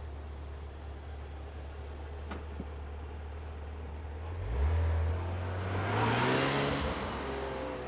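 Porsche 991 GT3 RS's 4.0-litre flat-six idling steadily, then revving up, its pitch climbing, as the car pulls away and drives past.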